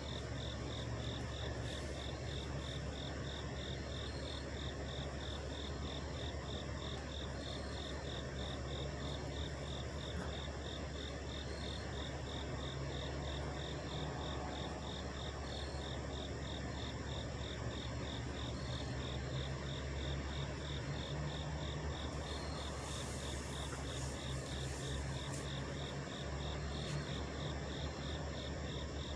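Several trucks idling, a steady low rumble, under insects chirping in an even pulse a little over twice a second.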